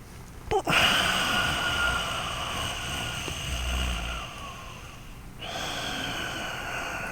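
Loud, deliberate breathing through the nose: a long airy breath of about four seconds that starts sharply and tapers off, then a short pause and a second long breath.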